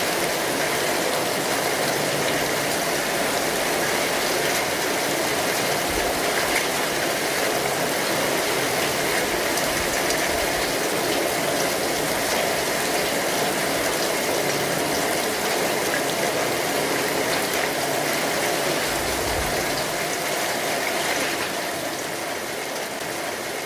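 Steady rain pattering on an umbrella: a dense, even hiss with fine scattered drop ticks, easing slightly near the end.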